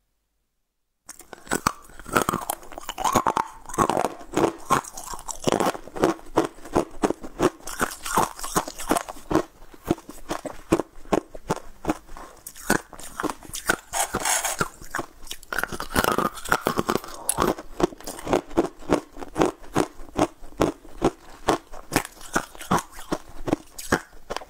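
Close-miked chewing and crunching of sugar-coated, mermaid-tail-shaped candy: dense, irregular crisp crunches several times a second, starting about a second in.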